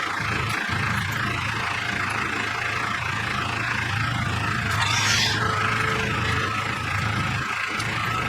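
An engine idling steadily, with a brief hiss about five seconds in.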